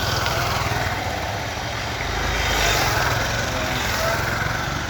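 Motorcycle engine running steadily, with an even low pulsing note under a noisy haze.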